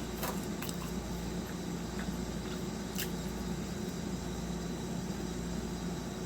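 Steady low electrical or appliance hum, with a few faint clicks in the first second and one more about three seconds in.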